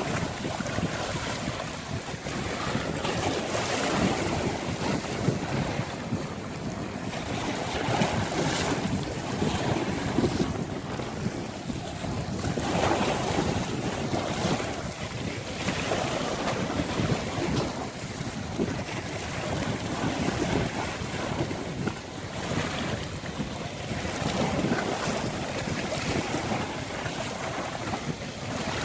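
Sea waves washing onto a beach, rising and falling every few seconds, with wind buffeting the microphone.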